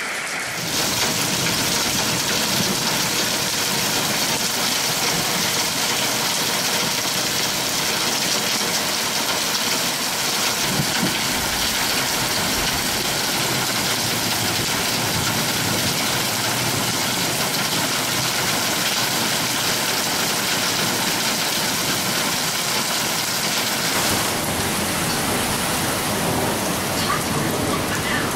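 Torrential rain pouring down: a steady hiss of rain pelting hard surfaces and splashing into standing water.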